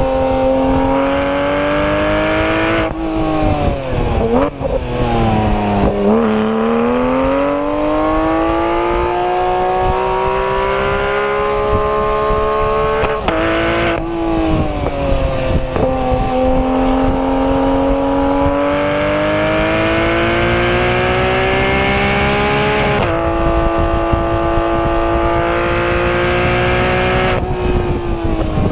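Porsche 991 GT3 RS's naturally aspirated 4.0-litre flat-six under hard acceleration on a race track, its pitch climbing through each gear and dropping sharply at the upshifts, about three seconds in, thirteen seconds in and twenty-three seconds in. Between four and six seconds in the pitch falls low and then winds back up as the car slows for a corner and accelerates out.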